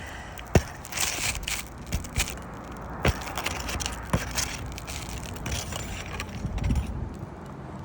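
Asphalt roof shingle being pried up, with crackling and scraping as the sealant strip comes apart, and a few sharp clicks.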